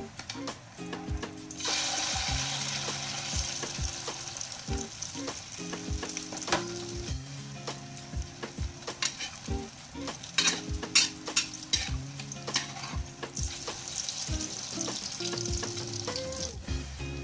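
Tortang sayote batter of beaten egg and grated chayote frying in hot oil in an aluminium wok. The sizzle jumps up sharply about a second and a half in as the batter hits the oil, then goes on steadily, with scattered light clicks.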